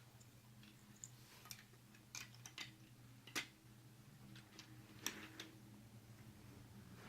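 Scattered small clicks and taps of toy train building pieces being handled and fitted together, the sharpest about three and a half seconds in and another about five seconds in, over a faint steady hum.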